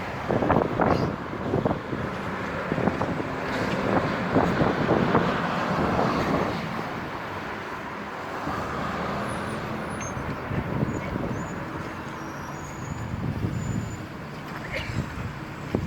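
Stormy wind gusting and buffeting the microphone, strongest in the first few seconds and easing later, over a steady rumble of road traffic.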